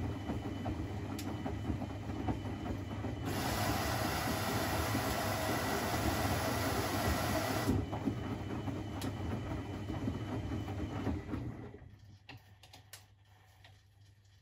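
Privileg 3001 S washing machine running, its motor turning the drum with a steady mechanical noise. About three-quarters of the way through it runs down and stops, leaving a quiet pause with a few faint clicks.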